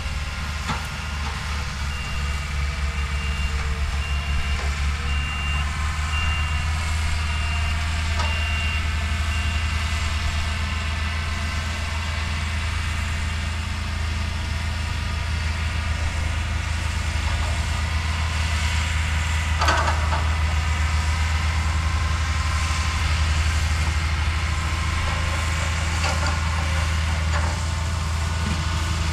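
Bulldozer diesel engine running steadily with a low drone, while a reversing alarm beeps for several seconds near the start. A brief clank comes about two-thirds of the way through.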